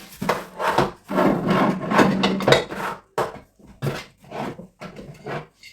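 Containers and packets being shifted and slid around on a kitchen cupboard shelf. About three seconds of continuous rubbing and scraping are followed by a string of separate knocks as items are set down.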